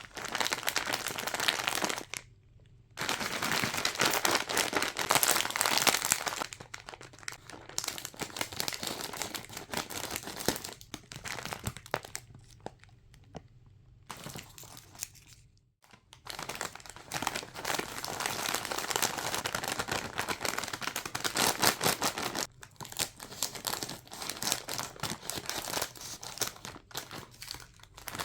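Snack and candy wrappers crinkling as they are handled and unwrapped, in several stretches with short quiet pauses between them.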